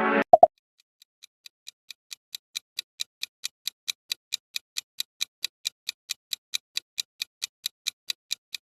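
Clock-style ticking of a countdown timer, about four even ticks a second, fading in over the first couple of seconds, after two short clicks right at the start.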